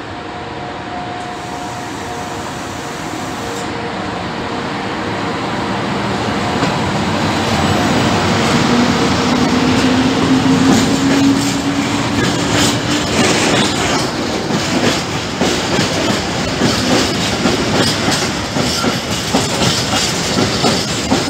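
FS E.652 electric locomotive hauling a freight train of Shimmns coil wagons, growing louder as it approaches and passes, with a hum from the locomotive that rises slightly in pitch around the middle. The wagons then roll by with a rhythmic clickety-clack of wheels on the rails.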